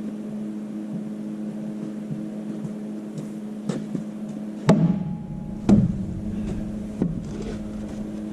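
Three heavy hammer blows, about a second apart, on a Caterpillar D4's track frame to drive it loose, over a steady hum. The first two blows are the loudest.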